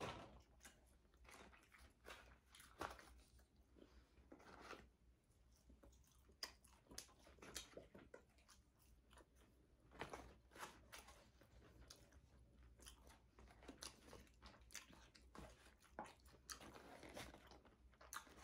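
Close-miked chewing of fast food: quiet, irregular crunches and small crackling bites.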